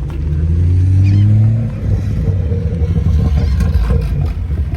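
Car engine revving, its pitch rising for about a second and a half, then a loud low exhaust rumble carrying on.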